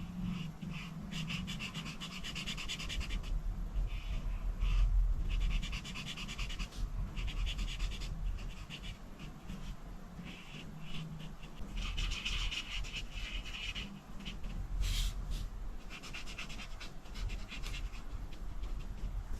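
Coloring strokes on paper: rapid back-and-forth scratching of a coloring tool, in bursts of a second or two with short pauses between them, over a low steady hum.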